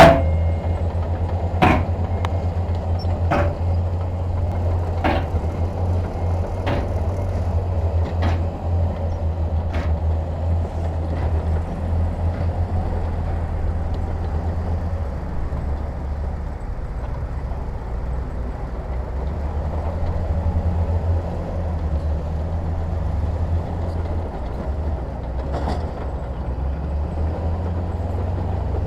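Heavy diesel engine of earthmoving equipment running steadily with a low drone. For the first ten seconds a sharp metallic knock comes about every second and a half, growing fainter, with one more knock near the end.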